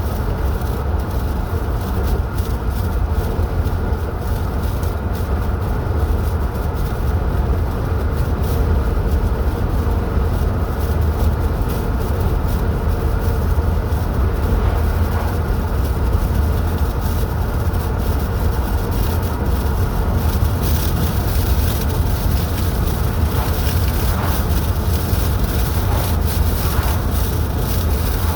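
Steady road noise of a car driving: a constant low rumble of tyres and engine with a hiss over it.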